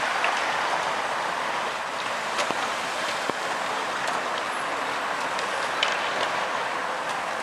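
Steady urban street noise from passing vehicles, with a few faint clicks.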